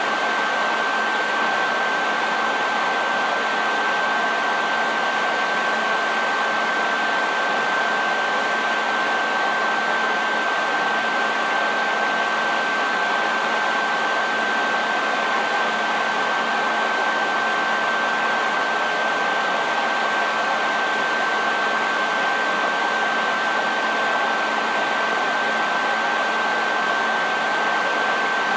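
Hair dryer running steadily: an even rush of air with a constant high whine from the motor and a faint low hum underneath.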